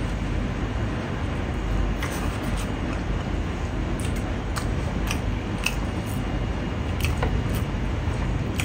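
A person chewing a mouthful of rice and pork, with wet mouth clicks and smacks coming every second or so over a steady low background rumble.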